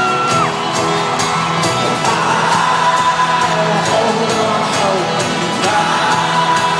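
Folk-rock band playing live in an arena, heard from among the audience, with a steady beat and held notes. A whoop from the crowd rises and falls right at the start, and crowd voices carry on under the music.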